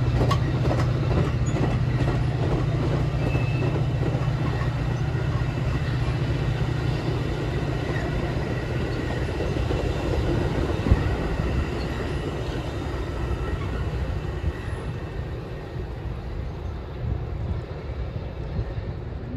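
Train moving along the tracks: a steady low diesel engine hum with wheels clicking over the rails. The hum dies away after a few seconds and the rumble grows fainter toward the end.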